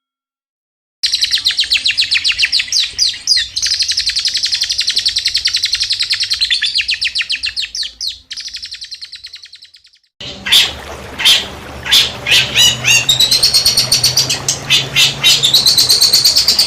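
Songbird singing in the rapid-fire 'tembakan' style: after a second of silence, a fast trill of evenly repeated high notes that breaks off around eight seconds in, then a second recording with a noisier background, opening with several sharp, loud calls and running into quick chatter.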